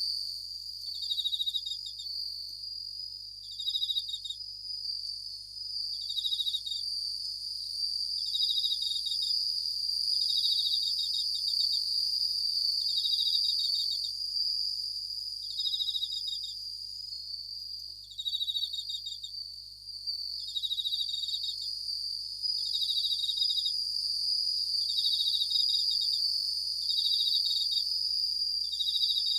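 Japanese bell crickets (suzumushi) singing: a short, rapidly trilled high chirp repeated about every one and a half seconds, over a steady high ringing.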